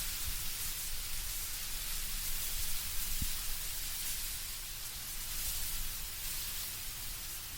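Wind blowing through autumn trees, the leaves rustling in a steady, even hiss over a low rumble of wind.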